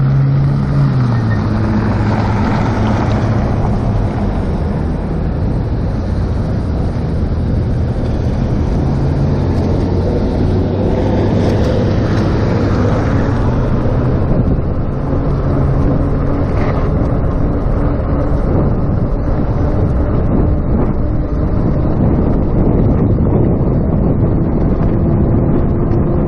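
Steady wind rush on the microphone and road noise while riding an electric bicycle, with a faint low hum running under it.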